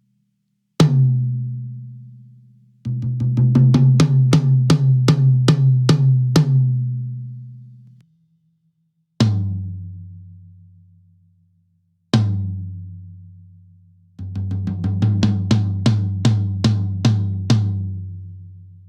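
Yamaha Recording Custom toms recorded dry, close-miked, with no other instruments. A tom rings out once, then is hit in a quick run of about four strokes a second. A lower-pitched tom then rings out twice and is played in a second run, each hit ringing and dying away slowly.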